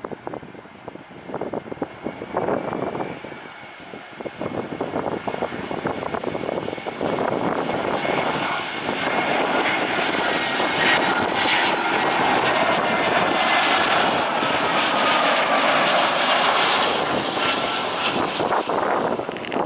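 Jet airliner on landing approach passing close by: the engine noise swells from about seven seconds in, is loudest for several seconds with a whine slowly falling in pitch, and fades near the end. Wind buffets the microphone in the first few seconds.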